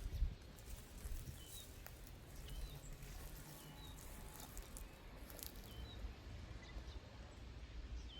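A small bird's short call notes, about four brief chirps a second or more apart, over a low steady rumble.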